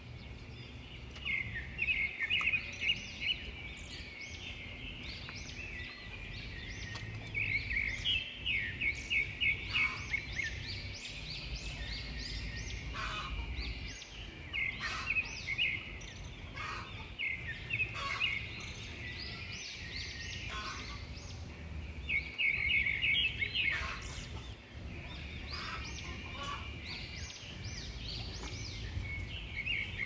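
Birds calling: repeated bursts of rapid chirping trills, one about every few seconds, with scattered single chirps between them, over a steady low background rumble.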